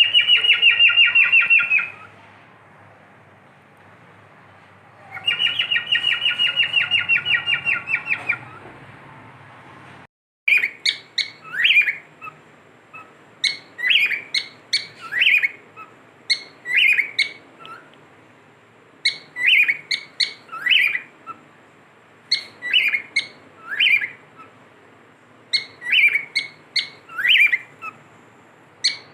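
Cockatiel calling: two long, rapid rattling trills in the first eight seconds, then repeated short chirps in quick clusters every second or two.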